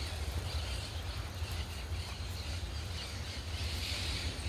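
Birds calling in the background over a steady low rumble.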